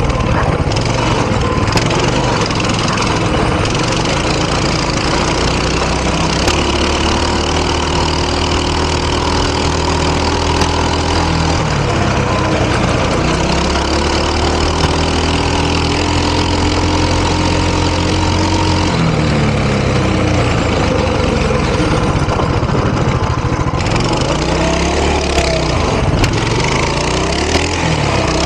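Coleman 200 cc mini bike's single-cylinder four-stroke engine running with both governors removed: long stretches held at steady high revs, with the revs falling and rising again about 12 seconds in and several times near the end.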